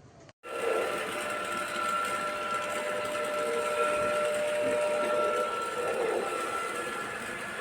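A Cecotec Conga 7490 robot vacuum running: a steady whirring hiss with a high, even whine over it. It starts abruptly about half a second in.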